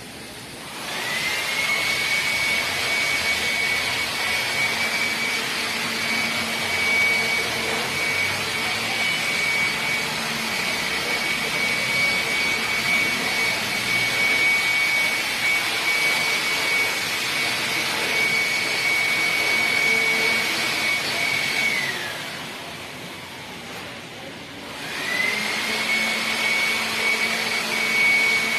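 A high-speed electric motor starts with a rising whine and runs steadily for about twenty seconds. It winds down with a falling pitch, then starts up again about three seconds later.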